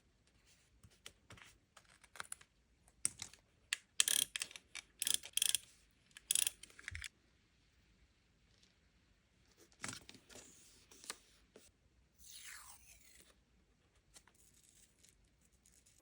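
Paper and sticker handling for diary decorating: bursts of crisp crinkles, taps and clicks, busiest between about three and seven seconds in and again around ten seconds, with a short tearing or peeling rip near the end.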